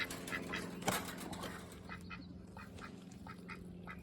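Ducks quacking: a run of short quacks, with a sharp click about a second in.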